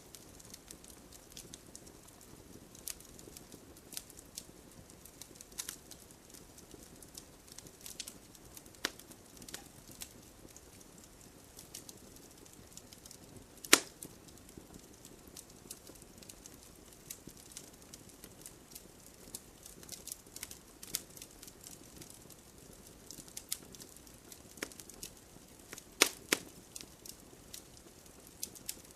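Wood campfire crackling: irregular snaps and pops of burning wood over a soft, steady hiss. One loud pop comes about halfway through, and a quick cluster of loud pops comes near the end.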